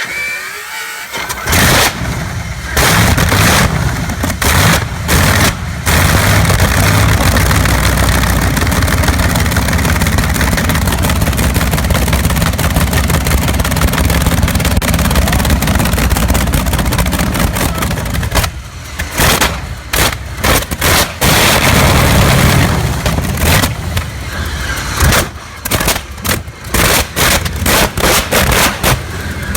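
Big Curtiss-Wright piston aircraft engine cold-starting. It catches suddenly, cuts in and out for the first few seconds, then runs loud and steady. It turns uneven and stuttering again in the later part.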